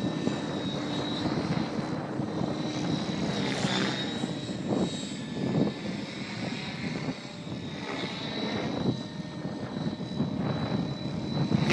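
Align T-Rex 700E electric RC helicopter in 3D flight: a steady high whine from the electric motor and drive gears over the whoosh of the main rotor. Short surges of blade bark come a few times, as the rotor blades load up in hard manoeuvres.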